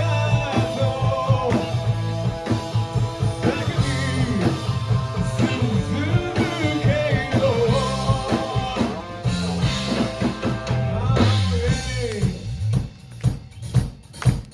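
Live rock band playing: a singer over electric guitar, bass and drum kit. In the last couple of seconds the music thins out to separate drum hits.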